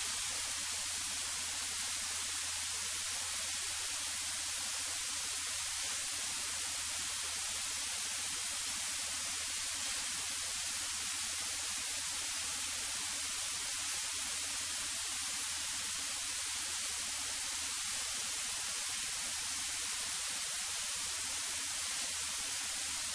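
Steady hiss, like static, from a cockpit intercom audio feed, with a faint low hum beneath it; no engine tones or other events stand out.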